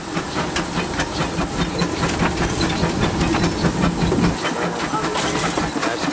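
Steam locomotive running, heard from inside the cab: a steady hiss of steam over dense clicking and rattling of the engine on the rails, with a louder burst of hiss about five seconds in.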